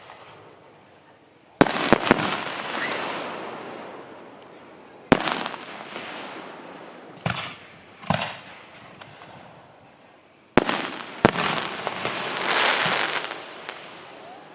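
Fireworks going off: about seven sharp bangs, several of them followed by a few seconds of dense crackling and hissing that dies away.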